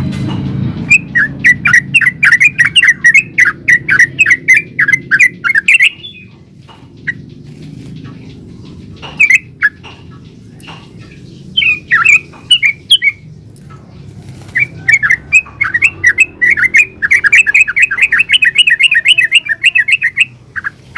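Yellow-vented bulbul singing in fast, chattering runs of bubbly notes, about four a second, in two long bursts with a few scattered calls between them. A steady low hum runs underneath.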